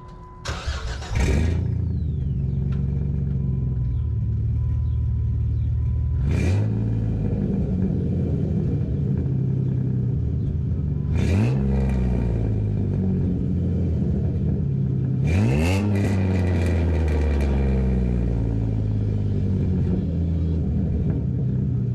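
2007 Jeep Wrangler's 3.8 L V6 exhaust, with long-tube headers, no catalytic converters or resonators and a cheap muffler. It idles, then is revved three times, at about 6, 11 and 15 seconds, each rev climbing and falling back to idle. The revs sound real raspy.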